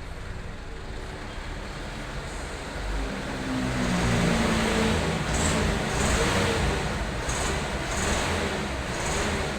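Truck engine running in a repair workshop, growing louder about three seconds in as it is revved, with several short high hisses in the second half.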